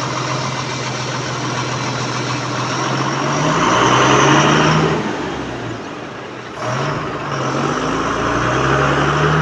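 Vehicle engine sound effect, running steadily and then revving up twice, with the pitch rising each time. It starts and cuts off abruptly.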